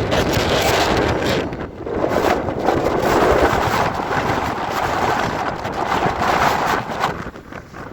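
Gale-force wind buffeting the microphone in loud, gusty swells, easing off about seven seconds in.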